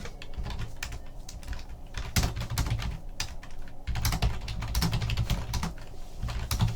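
Typing on a computer keyboard: quick key clicks in irregular bursts with short pauses between them.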